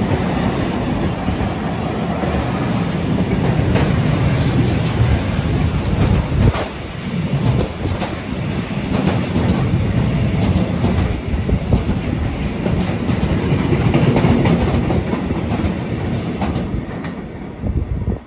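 Freight train passing close by, its wagons rolling with a loud, steady rumble and the clatter of wheels over the rail joints.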